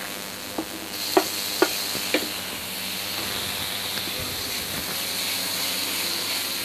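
Chopped tomatoes going into a pan of frying onions, ginger and garlic: the sizzling grows about a second in. A wooden spatula knocks on the pan a few times, then the mixture sizzles steadily as it is stirred.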